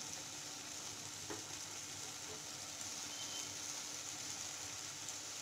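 Chicken, onions and chopped tomato sizzling steadily in a non-stick frying pan, with a spatula stirring through them.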